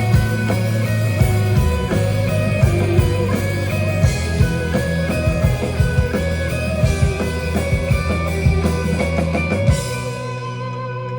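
A live band plays an instrumental passage with drums hitting steadily. A little before the end the drums and bass stop, leaving held notes ringing more quietly.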